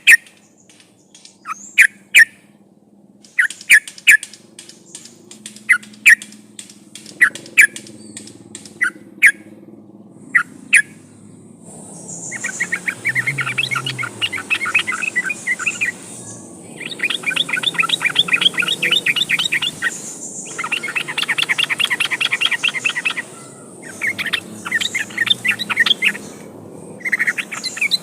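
Yellow-vented bulbul song: sharp single notes spaced out for about the first twelve seconds, then long, fast chattering phrases lasting several seconds each, with short pauses between them.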